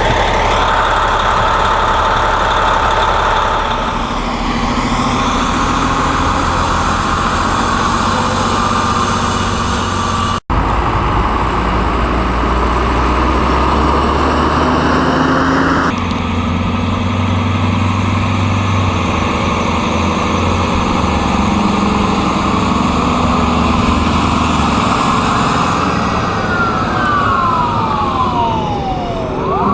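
Fire truck engine running steadily close by, loud, with a strong low hum. Near the end a whine falls in pitch.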